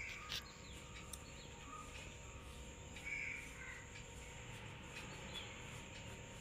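Faint bird calls in the background: a few short calls over a steady faint high whine.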